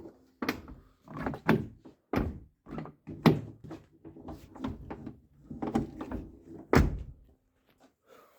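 Renault Mégane III car door being swung open and shut over and over, its door check strap clunking through its stops in a series of knocks, the loudest about three seconds in and just before seven seconds. There is no squeak: the check strap's rollers have been cleaned dry and their surfaces roughened so they turn instead of sliding.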